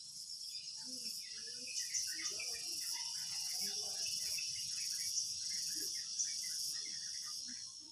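A steady high-pitched insect chorus, with faint scattered chirps beneath it; it cuts off abruptly at the very end.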